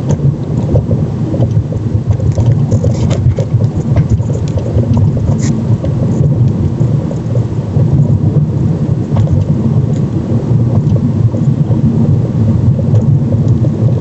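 Car driving over a rough road: steady low road and suspension rumble with irregular sharp knocks and a fine background rattle from a strut top mount. The mount has no vibration isolation and is built on Soviet split ШС20 spherical plain bearings in their third year, and the knocks come from these bearings.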